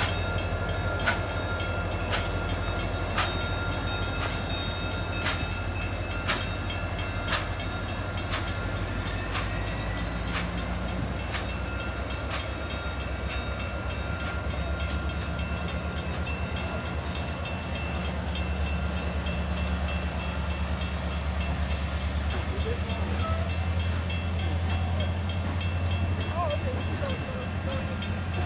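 Diesel-hauled passenger train rolling past, led by an SD40-3 locomotive with an F7 B unit: a steady low engine drone under the rumble of the cars. Wheels click sharply about once a second for the first ten seconds or so, and a faint steady squeal rings over the top.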